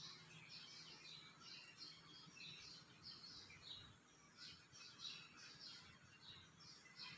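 Faint birds chirping in quick, repeated short notes over a low steady hum.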